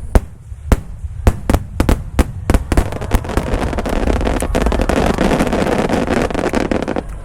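Aerial firework shells bursting: a quick string of sharp bangs, then a dense, rapid crackle that builds for about four seconds and cuts off suddenly.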